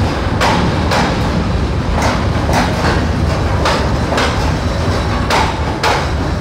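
Passenger train coaches rolling slowly along the platform, their wheels knocking over the rail joints about once or twice a second above a steady low rumble.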